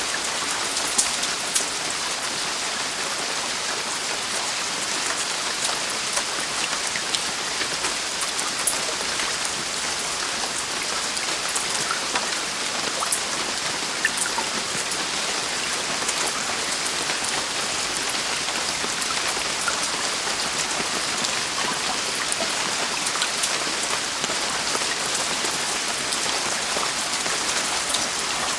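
Heavy rain falling steadily on a roof, a dense even hiss with many sharp drop ticks scattered through it.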